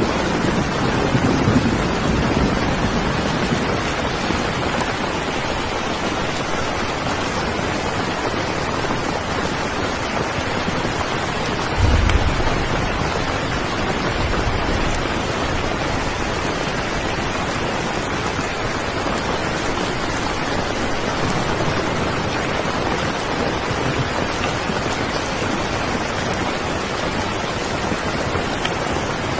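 Steady heavy rain, an even hiss, with brief low rumbles near the start and again about twelve seconds in.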